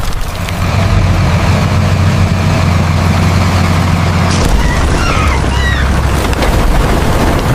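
Tractor engine running with a steady low drone that drops to a lower note about halfway through. A few short high chirps come over it just after the change.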